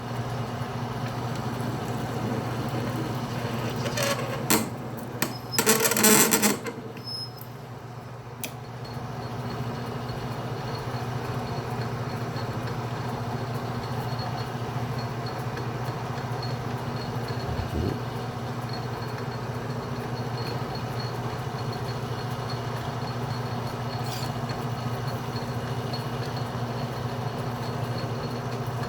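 Atlas metal lathe running steadily under power during single-point threading of 304L stainless steel, with a loud burst of metallic clatter about four to six seconds in before the steady running carries on.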